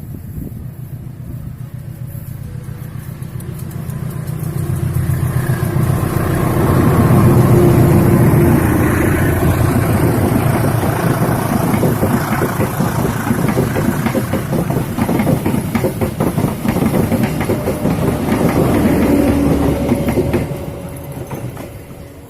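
Diesel train passing close by. The engine hum swells over the first several seconds, then the wheels clatter rapidly and steadily on the rails for about twelve seconds before the sound falls away near the end.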